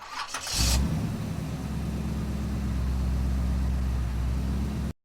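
A car engine running steadily with a low, even note. It comes in about half a second in and cuts off abruptly just before the end.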